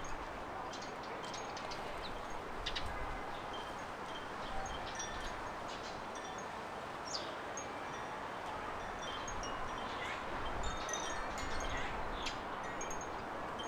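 Small garden birds chirping in short, high, scattered calls over a steady background hiss.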